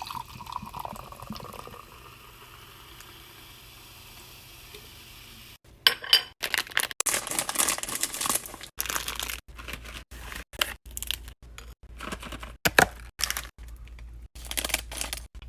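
Plastic snack packaging being crinkled and torn open, heard as a quick run of short crackly bursts from about six seconds in, after a few seconds of soft steady hiss.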